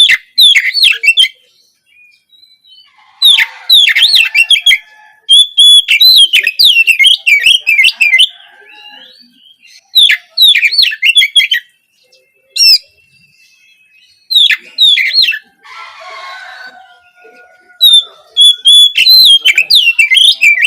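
Oriental magpie-robin (kacer) song: loud bursts of rapid, varied whistled phrases and trills, each lasting one to three seconds, broken by short pauses. A brief raspy sound comes about two-thirds of the way through.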